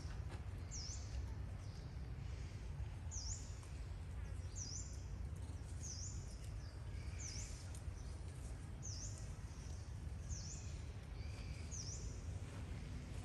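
A bird repeating a short, high chirp about once a second, over a steady low outdoor rumble.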